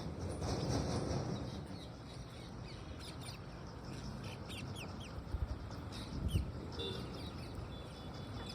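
Parrots calling with quick high chirps, mostly in the middle, and a short call near the end, over a steady low background rumble, with two dull thumps shortly after the middle.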